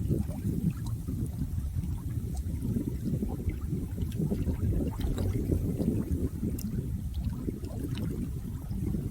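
Flowing water running steadily, a low, churning burble with small splashes and drips.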